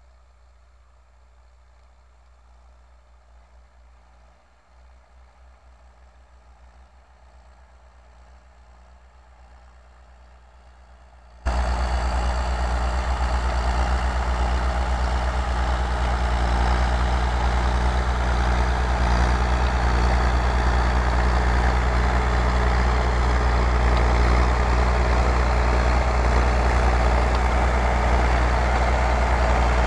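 Belarus MTZ tractor's diesel engine running: faint and distant at first, then suddenly much louder and close about eleven seconds in, running steadily as it ploughs.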